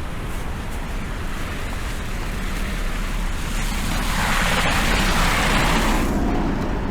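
A vehicle passing on a wet, slushy street: the hiss of its tyres through the slush swells for a few seconds and fades, over a steady low rumble of city traffic.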